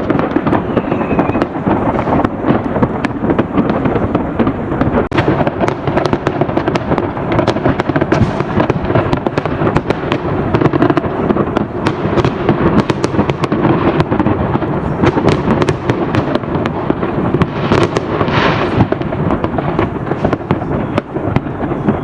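Many New Year fireworks and firecrackers going off together: a dense, unbroken barrage of bangs and crackles with a continuous rumble underneath, and a brief hissing burst about eighteen seconds in.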